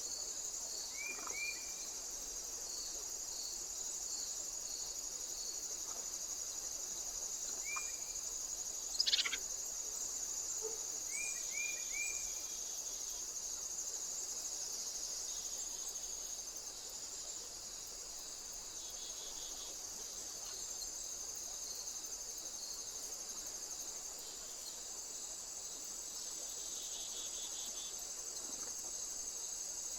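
Continuous high-pitched chirring of crickets or similar insects, with a faint even pulsing in the first few seconds. A few short high chirps come singly and in a quick run of three, and a single sharp tap about nine seconds in is the loudest sound.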